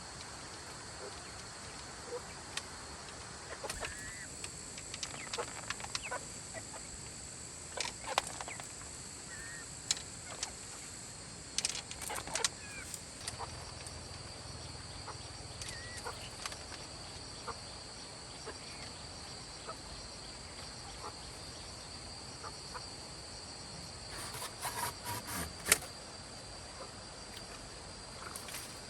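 Steady high chirring of crickets, with scattered clicks and knocks from handling things and a few short bird calls. The loudest knock comes near the end.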